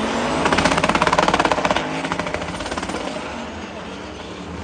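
Supercharged El Camino engine held at high revs in a burnout, its exhaust a very rapid, even pulsing with the tyres spinning in smoke. About two seconds in the revs come down and the sound fades.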